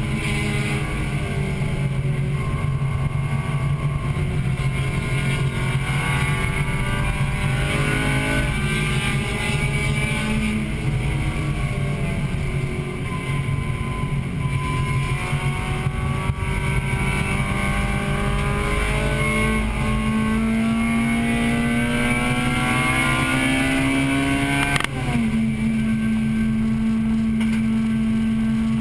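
1998 Acura Integra Type-R's 1.8-litre VTEC four-cylinder at full race pace, heard from inside the car. The revs fall for several seconds, then climb steadily for about twelve seconds, and near the end an upshift drops them suddenly before they hold steady.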